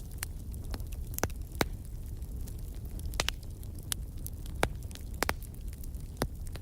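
Wood logs burning in a fireplace: a low, steady rumble of flame with sharp crackles and pops at irregular intervals, the loudest pops about a second and a half in and again past four and a half seconds.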